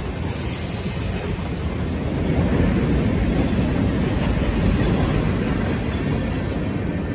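Freight cars of a mixed freight train rolling steadily past, their steel wheels running on the rails.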